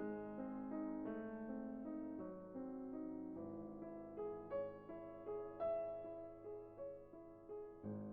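Soft background music played on piano or electric piano: a slow, gentle melody of sustained notes.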